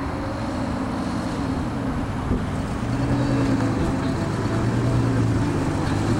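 A twin-turbo V12 kit car's engine running under way at fairly steady revs, mixed with heavy wind and road noise. The engine note grows a little louder about three seconds in.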